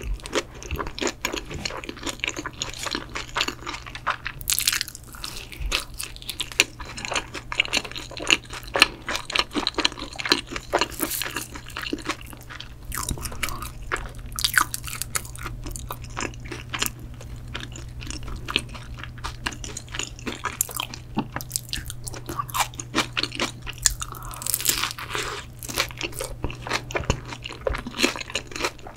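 Close-miked chewing of pizza and its bread-roll crust: frequent crunchy bites and chewing, with a few louder bursts. A steady low hum runs underneath.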